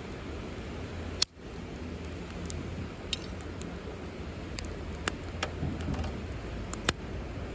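Wood campfire crackling: scattered sharp snaps and pops over a steady low rumble of the burning fire, with one louder snap about a second in.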